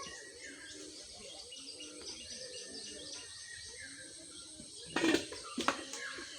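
Small birds chirping busily with many short, high calls. Two loud sudden rustling bursts come about five seconds in.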